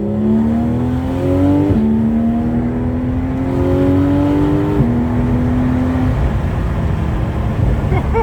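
Porsche 911 flat-six engine under hard acceleration, heard from inside the car, its note climbing in pitch and dropping sharply at two quick upshifts, about two and five seconds in. After the second shift it climbs briefly, then settles into a steadier, less distinct note.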